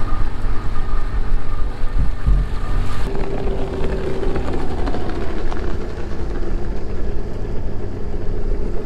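Boat engine running steadily while the catamaran is under way, with a higher steady hum joining about three seconds in.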